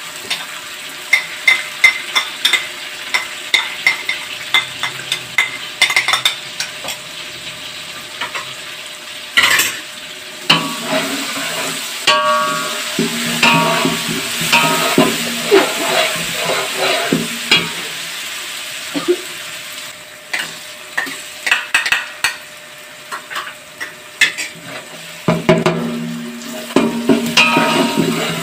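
Chopped green chillies and fried onions sizzling in hot oil in a large metal pot, stirred with a metal spatula that scrapes and clicks against the pot again and again.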